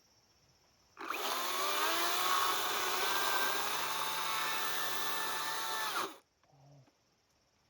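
Electric power tool motor spinning up about a second in, running steadily at one pitch for about five seconds, then cutting off.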